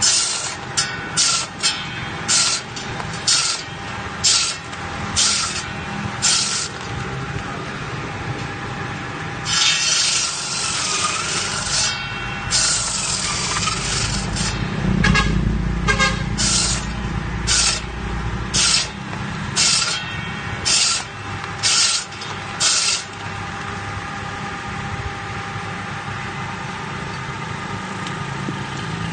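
Stone-cutting machine with a single horizontal blade running with a steady hum, broken by repeated short bursts of loud, high hissing noise, a few of them lasting two or three seconds; near the end only the steady running is left.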